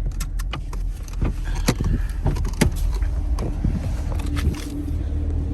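Inside the cabin of a V8 muscle car on the move: a steady low engine and road drone, with scattered light clicks and rattles.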